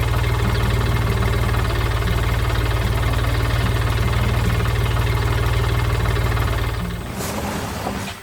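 Tractor engine idling steadily with a low, fast-pulsing rumble that drops away about seven seconds in.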